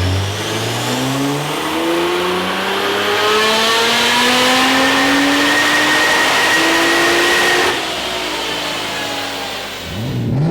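Modified Nissan R35 GT-R's twin-turbo V6, with aftermarket intakes, Y-pipe and cat-back exhaust, accelerating hard, its note climbing steadily in pitch with short steps at the gear changes. About three quarters of the way through the throttle lifts and the note drops and quietens, then it begins to rise again right at the end.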